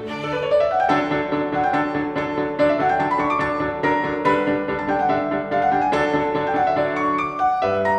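Background piano music with quick runs of notes rising and falling.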